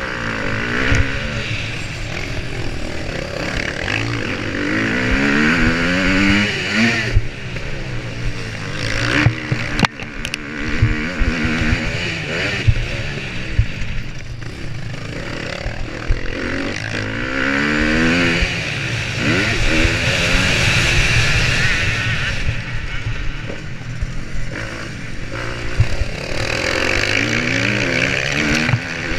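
Motocross bike engine heard close up from an on-board camera, revving hard and dropping back again and again, its pitch climbing in several long pulls, with knocks and jolts from the track.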